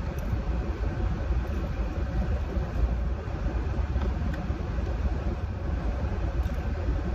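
Steady low rumble of a parked car's engine idling with the air conditioning running, heard from inside the cabin.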